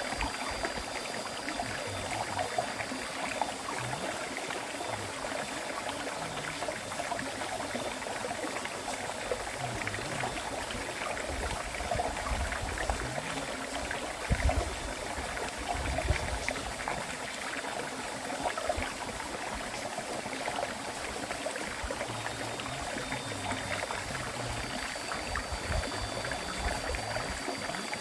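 A river stream flowing and burbling steadily over rocks, with a couple of louder low surges about halfway through.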